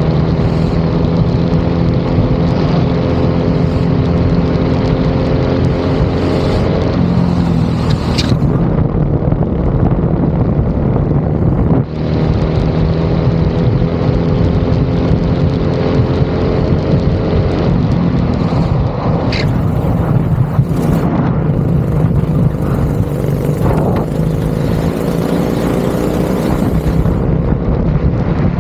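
Go-kart engine running hard at racing pace. Its pitch climbs for several seconds and then drops off, three times over: accelerating along straights and lifting for corners.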